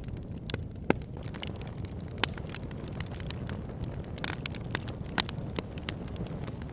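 Wood fire burning in a fireplace: a steady low rush of flame under frequent sharp crackles, with a few louder pops of burning wood.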